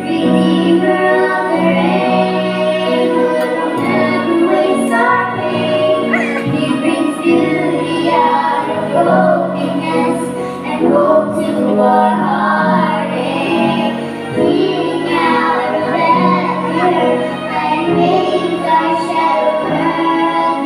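A song: young female voices singing a melody over sustained instrumental accompaniment.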